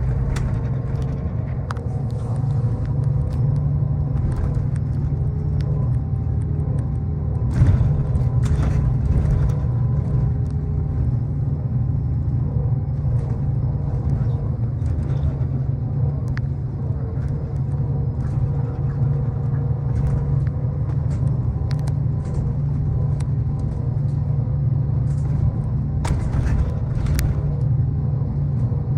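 Steady low rumble of a tour bus driving, heard from inside the cabin, with a few brief rattles and clicks.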